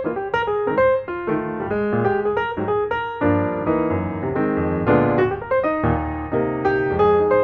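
Background piano music, a steady run of quick notes.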